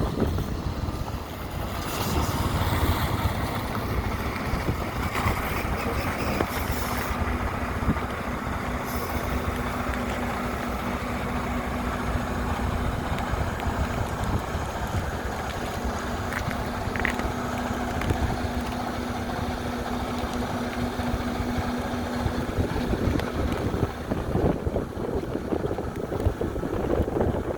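Semi-truck's Detroit DD15 diesel engine idling, a low rumble with a steady hum through the middle of the stretch.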